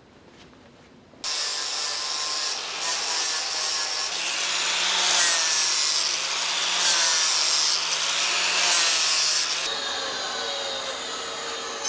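A power saw cutting metal exhaust pipe to length at an angle. It starts abruptly about a second in, gets louder in several stretches as the blade bites through the tube, then drops to a quieter run near the end.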